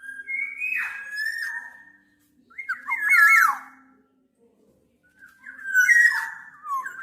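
Black-naped oriole singing: three short, fluty whistled phrases, each with gliding notes that fall at the end, separated by brief pauses.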